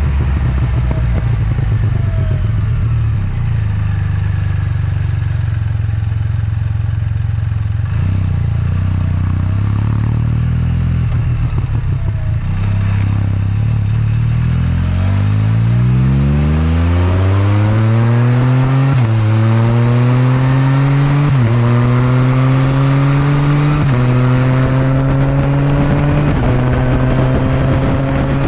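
Can-Am Spyder F3's Rotax three-cylinder engine through an RLS Punisher slip-on exhaust, holding a steady low note for about the first half. It then accelerates hard, the pitch climbing and dropping back four times as it shifts up through the gears.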